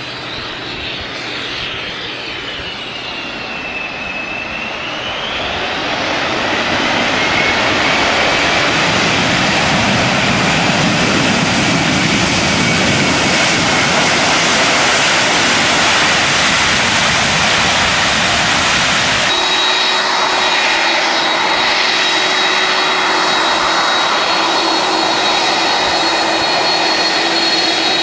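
Jet airliner engines, growing louder over the first several seconds and then holding a loud, steady rush. About two-thirds of the way in, the sound changes abruptly to steadier engine noise with a high whine over a low hum.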